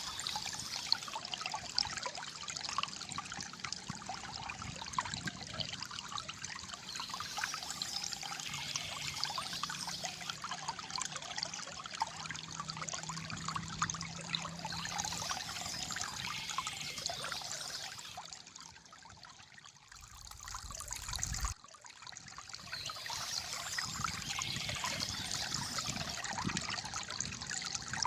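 Calm flowing water trickling and gurgling. About eighteen seconds in it dies down, a short low rumble follows and stops abruptly, then the trickling returns.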